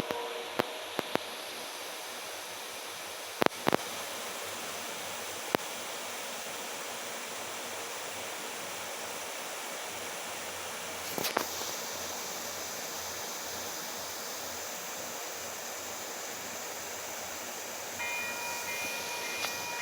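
Mixed freight train passing: a steady rolling noise from the cars with a few sharp clanks. Near the end a steady ringing chime starts up.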